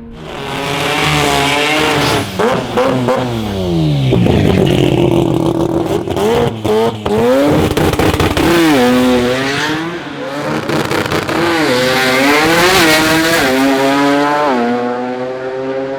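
Turbocharged Mazda rotary engine revving hard, its pitch climbing and falling several times with abrupt brief cuts, then dropping back to a steady idle near the end.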